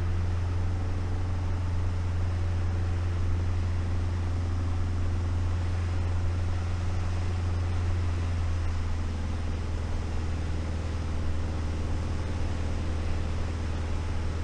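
Light aircraft engine and propeller droning steadily in the cockpit during circuit flying, with the engine note easing slightly about two-thirds of the way through.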